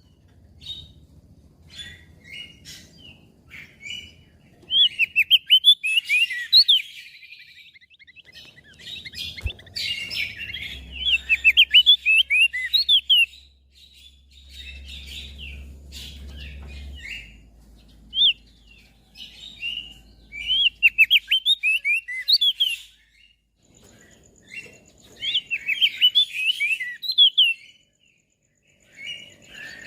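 Crested white-eye (opior jambul) singing: bursts of rapid, high twittering notes lasting a few seconds each, separated by short pauses.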